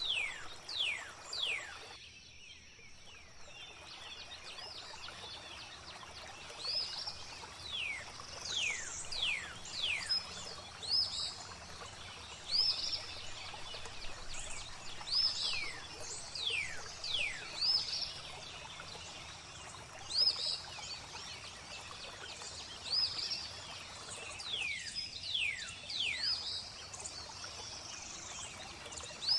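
Flowing water ambience with birds singing over it: repeated quick downward-sliding whistles and short high chirps every second or two. The water sound briefly dips twice.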